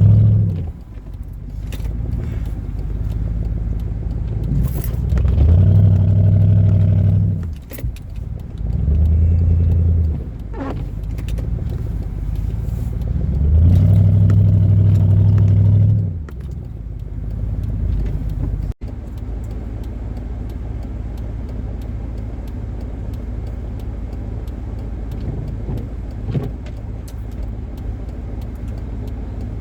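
Car engine in deep snow, revved up in several spells of one to two seconds and eased back between them, then running steadily after a cut.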